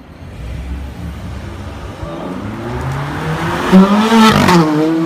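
Ferrari 430 Scuderia's naturally aspirated 4.3-litre V8 accelerating away, heard from outside the car. A low rumble builds from about two seconds in into a rising, loud engine note that peaks around four seconds in, then drops in pitch and holds.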